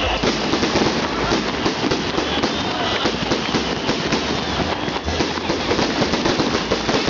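Fireworks salute: a dense, unbroken crackling of many small bursts, with faint whistles gliding in pitch now and then.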